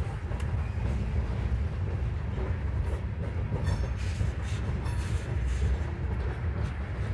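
A freight train rolling past, a steady low rumble of wheels on rail with a few short sharp clicks.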